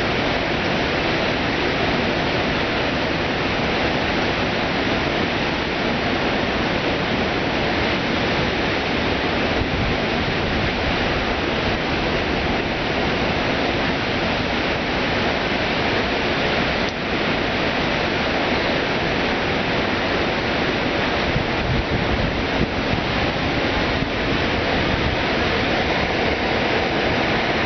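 Floodwater pouring over the half-completed Cotter Dam, a steady, unbroken rush of water. The dam is overflowing after extreme rain.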